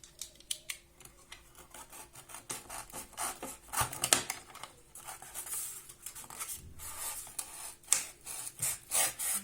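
A knife sawing back and forth through a ceiling moulding held in a miter box: a run of uneven rasping, scraping strokes as the blade cuts the 45-degree corner.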